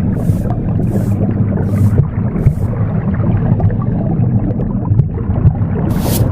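Womb sound, a steady low whooshing rumble, mixed with a broom sweeping in short swishes. There are four strokes about 0.7 s apart, then a pause of about three seconds, then one more swish near the end.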